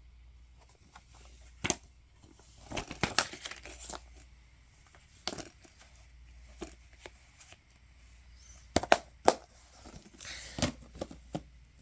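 Paper leaflets and plastic DVD cases being handled: rustling and crinkling of paper with scattered sharp clicks and knocks, the loudest two close together near the end.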